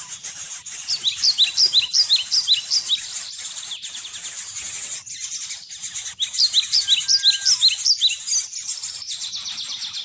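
Bird chirping in two quick runs of about a dozen short, high notes, each run lasting about two seconds, over a steady high insect hiss.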